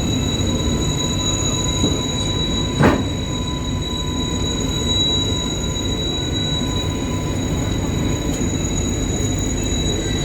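WAG-9 electric locomotive running along the track: a steady low rumble with steady high-pitched whine tones over it, and one brief knock about three seconds in.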